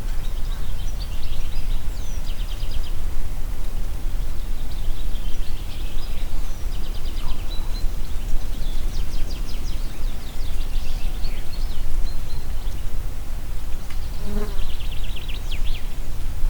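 Wind blowing as a steady low rumble, with small songbirds singing high, rapid trills and chirps several times over it.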